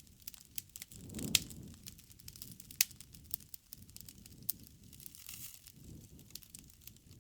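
Wood fire crackling, with irregular sharp pops over a low steady rush; the two loudest pops come about a second and a half in and near three seconds in.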